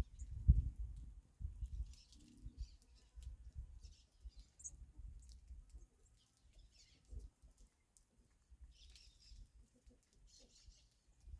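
Small birds giving short, scattered high chirps, over low rumbling thumps that are loudest in the first second and die away by the middle.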